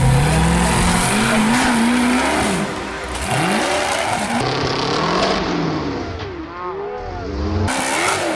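Off-road rock-racing truck's engine revving hard, rising and falling in repeated blips, over loud tire and rock noise.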